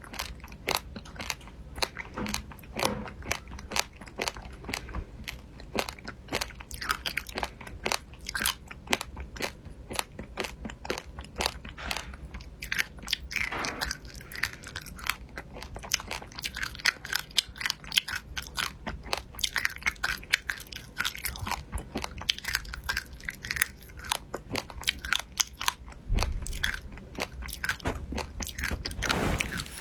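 A person biting and chewing crunchy food close to the microphone: a dense, irregular run of crisp crunches.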